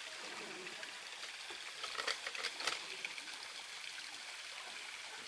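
Waterfall's water rushing in a steady, even hiss, with a few sharp clicks about two to three seconds in.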